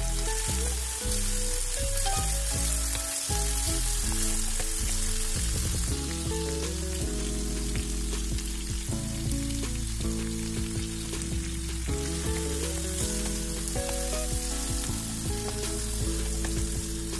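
Chopped carrots, peas and beef sizzling in hot oil in a nonstick frying pan while a wooden spoon stirs and turns them. Background music plays underneath, with held notes that change every second or so.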